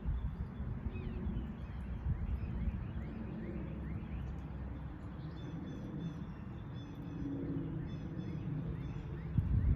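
Outdoor ambience: small birds chirping in short repeated high notes, over a steady low rumble.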